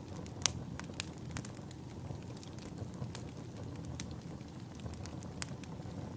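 Log fire crackling: sharp pops at irregular intervals over a low, steady rumble, the loudest pop about half a second in.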